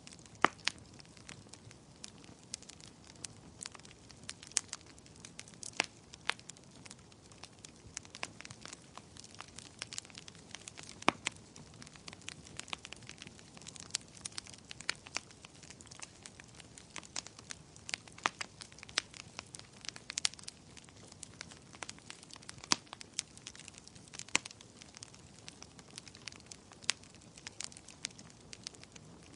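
Wood fire in a fireplace crackling: many irregular sharp pops and snaps of varying loudness over a soft hiss, with a few louder pops scattered through.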